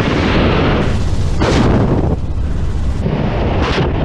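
An attack helicopter's weapons firing, with explosions: a continuous heavy rumble broken by two sharp blasts, one about a second and a half in and one near the end.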